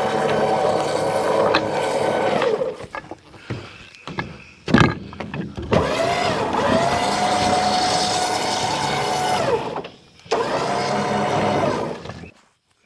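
Chainsaw cutting through a log in three runs at high revs. On the middle run the engine note rises as it comes up to speed, then holds under load. A sharp knock comes between the first two runs, and the saw cuts out shortly before the end.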